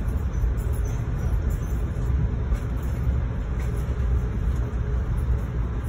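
Steady low rumble of a moving passenger train heard from inside the coach.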